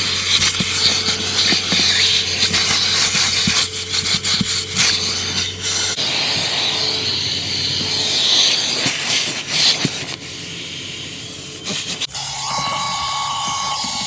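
Loud hissing and rushing from car-wash equipment working on a car, in several short stretches that change abruptly, with scattered small knocks.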